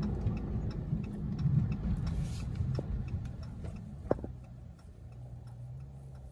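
Dodge Charger's V8 running low and quiet inside the cabin as the car coasts down from about 28 to 14 mph, its rumble fading. A turn signal ticks steadily, with one sharper click about four seconds in.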